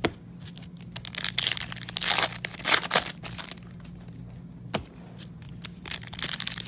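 Baseball card pack wrappers being torn open and crinkled by hand, in irregular bursts with a couple of sharp clicks, over a low steady hum.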